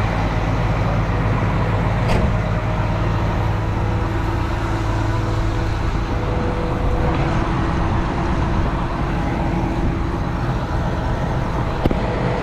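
Diesel tractor engine running steadily, with a sharp click about two seconds in and another near the end.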